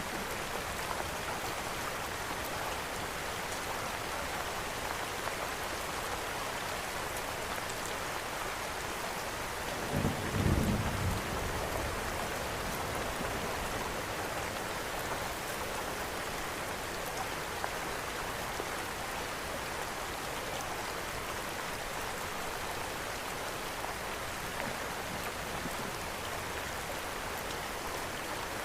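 Steady rain falling, with a short low rumble of thunder about ten seconds in.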